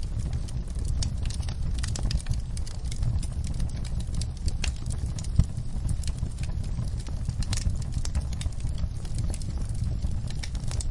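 Wood fire crackling with irregular pops over a low steady rumble, with one sharper pop about five seconds in.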